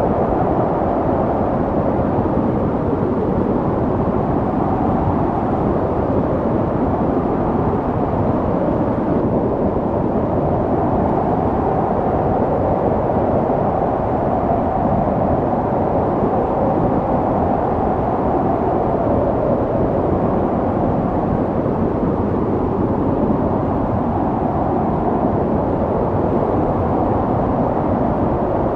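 Snowstorm wind blowing steadily, a deep rushing noise with slow swells that rise and fall every few seconds.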